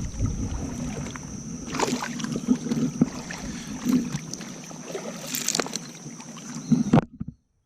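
River water splashing and sloshing, as of an angler wading in a shallow river, with a couple of sharper splashes and a steady high thin whine behind it. It cuts off abruptly near the end.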